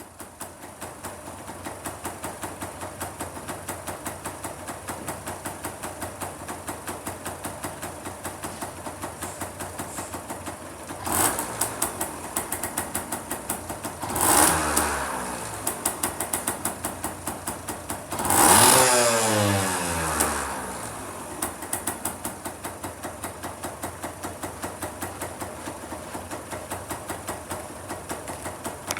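Kawasaki KSR-2 mini bike's two-stroke single-cylinder engine idling with a rapid, even pulse. It is blipped three times, the revs rising sharply and then falling back to idle.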